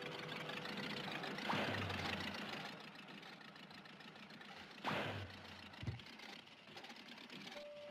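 Old open car's engine running and chugging as it drives off, with two sudden loud bursts, about a second and a half in and near the five-second mark, and a short thump soon after.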